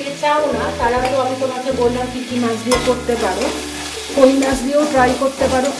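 A flat metal spatula scraping and stirring a spice paste around an aluminium kadai in quick repeated strokes, while the paste sizzles as the masala fries in oil.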